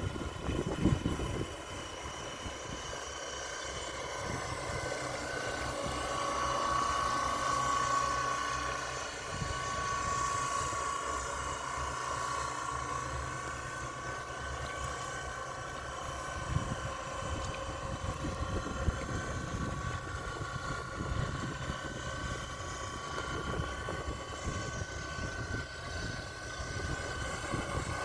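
Radio-controlled model boat's motor running with a steady whine that swells louder and eases off a few times.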